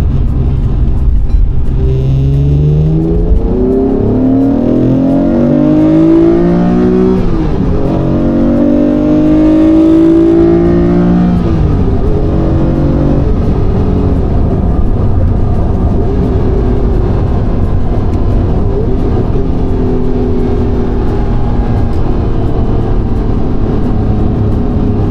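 Honda NSX's V6 engine pulling through the gears: its pitch climbs, drops at an upshift about seven seconds in, climbs again and drops at a second shift a few seconds later, then settles to a steady cruise.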